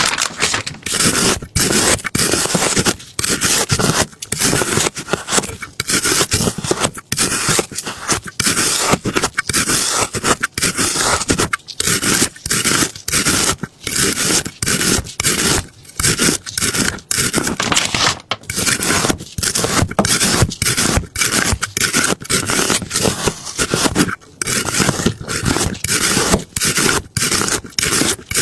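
Loud repeated scraping strokes, about two a second, with short pauses between runs.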